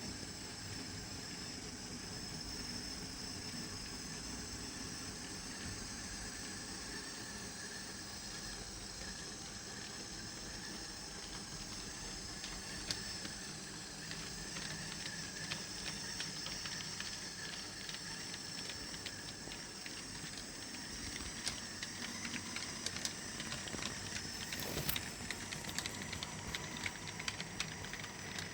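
HO-scale Key Imports three-truck Heisler brass model locomotive running, a steady mechanical whir of its motor and geared drive. Small sharp clicks join in about halfway through and come thicker and louder near the end.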